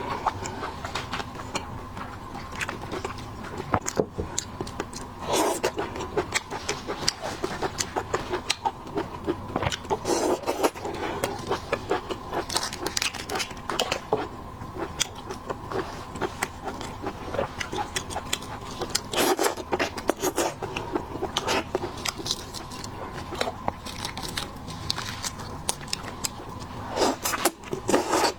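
Close-miked eating of seafood: chewing and biting, with irregular crackles and scrapes from shells being handled and cracked. Louder clusters come every few seconds.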